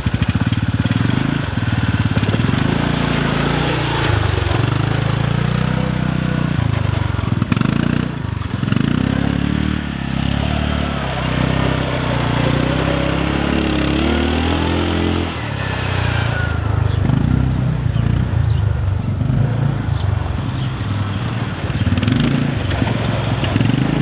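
Quad bike (ATV) engine running under a rider, its pitch rising and falling as the throttle is opened and eased off.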